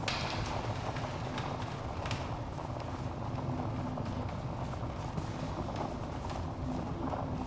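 Wood fire burning in a fireplace: a steady low rumble of flames with scattered sharp crackles and pops, a loud pop right at the start and another about two seconds in.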